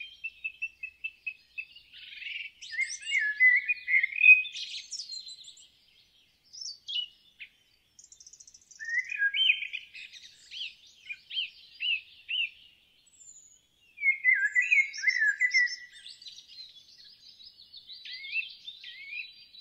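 Songbirds singing: bursts of quick, high chirping phrases, separated by short pauses.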